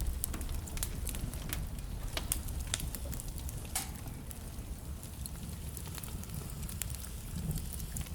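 Wood fire burning in a fireplace: a steady low rumble of flames under irregular sharp crackles and pops from the burning logs, with one stronger pop about halfway through.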